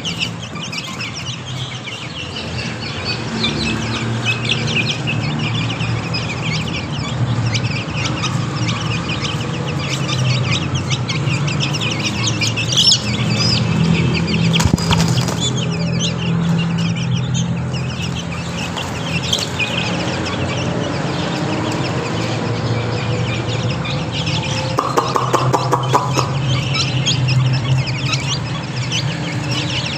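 A box of Ayam Cemani chicks peeping continuously, many high, short cheeps overlapping, over a steady low hum.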